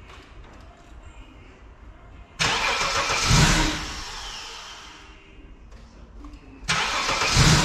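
Vauxhall Omega MV6's 3.0 V6 being cranked twice, each start attempt a loud burst of about a second that then dies away rather than settling into an idle. The owner suspects a vacuum line in the wrong place or something left unplugged.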